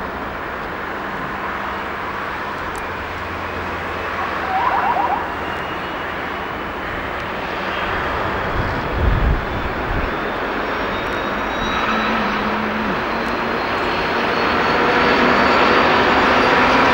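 Diesel train engine running and building, with a turbocharger whine that slowly rises in pitch as it grows louder toward the end. A short low thump comes about nine seconds in.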